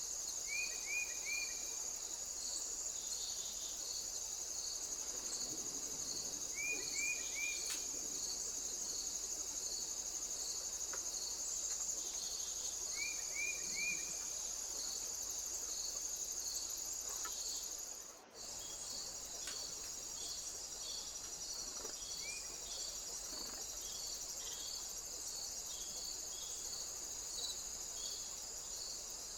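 Chorus of crickets or other singing insects: a steady high trill with an even pulsing chirp about twice a second. A few quick groups of three short chirps sound lower down. The sound drops out briefly about two-thirds of the way through.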